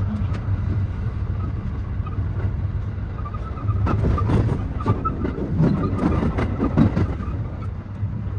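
JR West 223 series 2000 electric multiple unit running, heard from the driver's cab: a steady low rumble, with a run of sharp clacks from about four to seven seconds in as the wheels cross rail joints and points.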